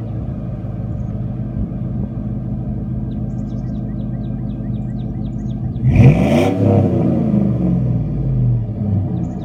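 2001 Chevrolet Tahoe's 5.3L Vortec V8 idling through a Thrush welded single-in, dual-out exhaust, then revved sharply once about six seconds in, the pitch shooting up and falling back to idle over the next two seconds.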